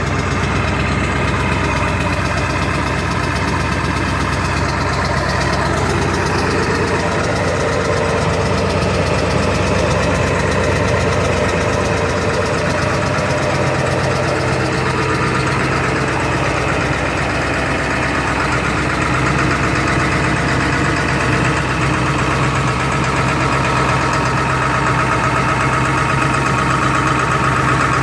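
2002 Ford F-350's 7.3 Power Stroke V8 turbodiesel idling steadily with a diesel knock, shortly after a cold start in frigid weather without the block heater plugged in. The tone of its low hum changes slightly about halfway through.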